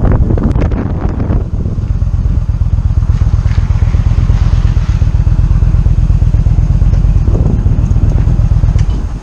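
Motorcycle engine running with a steady, loud low rumble, with gusts of wind buffeting the microphone in the first second or so. The sound drops off sharply near the end.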